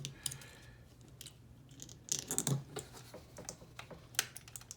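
Light clicks and rattles of a plastic snap-together model kit's parts being handled and pressed back into place, with a brief flurry about two seconds in and another click near the end.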